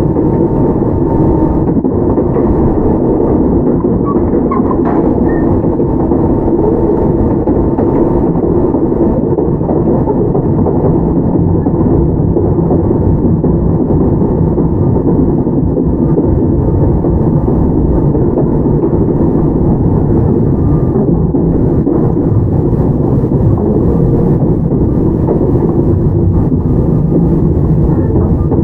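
Toyama Chihō Railway 17480 series electric train (ex-Tokyu 8090 series, field-chopper control) running, heard from on board: a steady, loud noise of wheels on rail and running gear with no change in pace.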